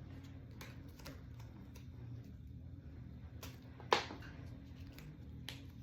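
Cards being handled and shuffled: a string of light irregular clicks and taps, with one sharper tap about four seconds in, over a steady low room hum.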